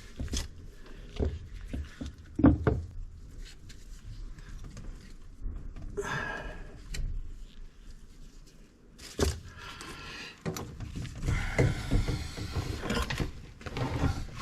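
Scattered knocks and thunks of objects being handled, with the loudest thump about two and a half seconds in and a busier stretch of clatter near the end.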